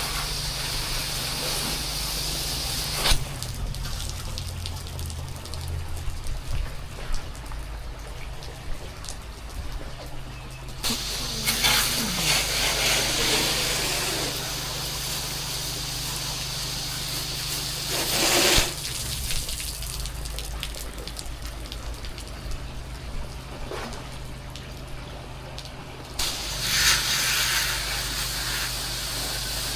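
Pressure-washing equipment running steadily while water is sprayed in spells: a hiss of spray comes and goes several times over a constant low machine hum.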